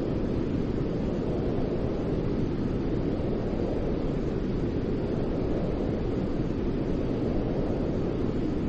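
Continuous white noise for soothing a baby to sleep: a steady, deep rushing hiss that never changes.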